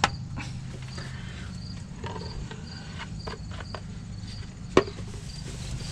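Crickets chirping steadily, about two chirps a second, over a low hum. Over them come a sharp click at the start, a few faint clicks, and a louder knock near the end as the differential fill plug is put back in.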